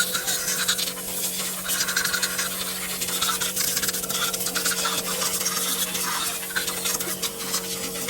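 Continuous hand scraping and rubbing, a rapid scratchy rasp that comes and goes in strength, over a steady hum.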